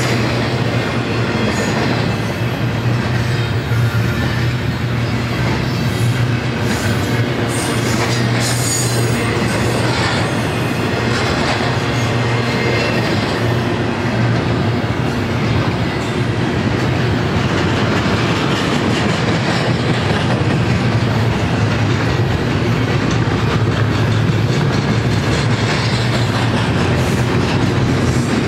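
A double-stack intermodal freight train's container well cars rolling past, a steady loud rumble of steel wheels on rail.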